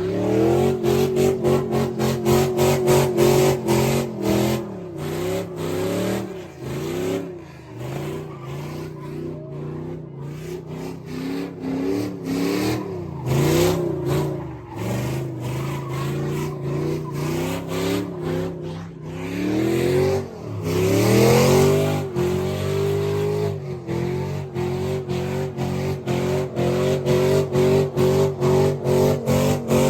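Car engine revving hard, its pitch climbing and falling repeatedly with a choppy, pulsing note, and one big rev swell a little past the middle.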